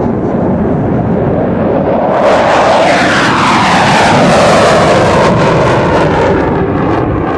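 Airplane flying low past. Its engine noise swells sharply about two seconds in, then drops in pitch as it goes by and fades near the end.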